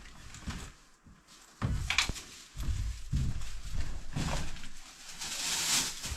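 Irregular thuds, knocks and rustling as camping gear is carried in and set down, with a longer rustle near the end.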